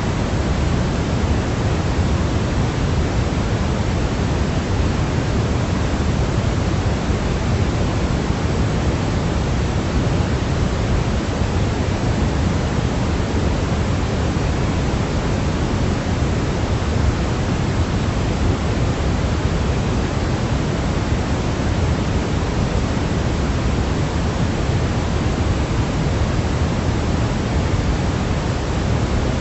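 Steady, unchanging white-noise hiss, fuller in the low end than the high, with no breaks or changes.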